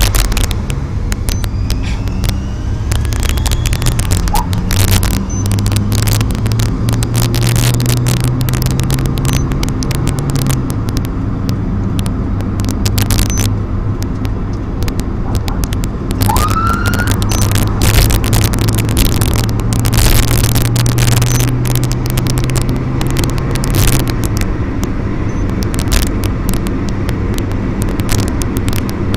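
Vehicle engine running at road speed: a steady drone that shifts in pitch a few times, over road noise, with many short crackling clicks. A brief rising chirp comes about 16 seconds in.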